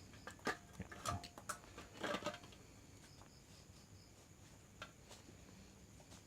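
A few light clicks and knocks, like small parts or tools being handled, in the first two seconds or so, then faint room tone.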